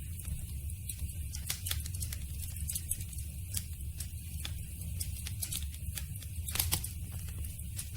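Campfire burning: irregular wood crackles and pops over a steady low rumble, with a louder run of pops near the end.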